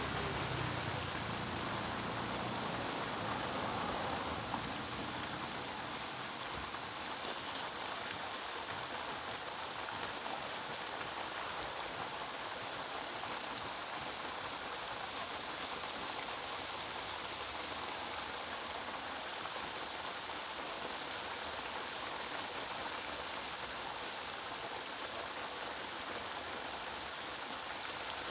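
Water fountain running, a steady rush of falling and splashing water, a little louder in the first four seconds.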